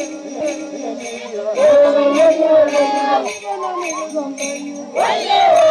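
People singing a held, wavering melody; the singing grows louder about five seconds in.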